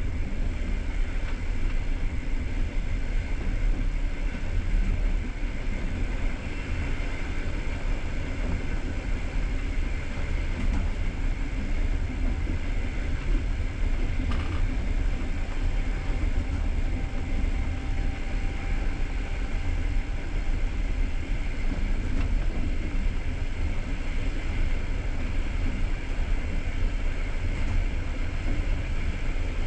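Steady rumble and hiss of a moving passenger train heard from inside the carriage: wheels running on the rails, with no distinct rail-joint clicks.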